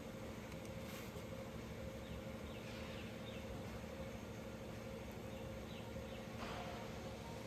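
A few short, faint bird chirps over a steady low hum.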